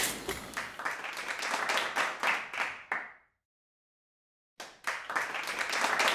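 Hands clapping in a quick, uneven patter, like a small group applauding. It cuts off abruptly about three seconds in, leaving dead silence, and starts again about a second and a half later.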